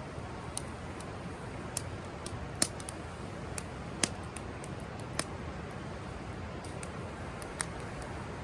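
Wood campfire crackling: sharp pops at irregular intervals over a steady background of noise.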